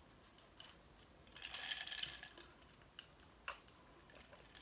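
Faint mouth sounds of eating: chewing a bite of chicken burrito, with a short rustle about a second and a half in and a few soft clicks, then a sip from a glass.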